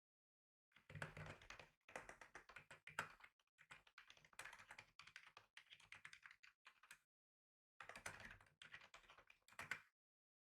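Typing on a computer keyboard: rapid, uneven runs of key clicks. They pause for about a second around seven seconds in, then resume briefly and stop shortly before the end.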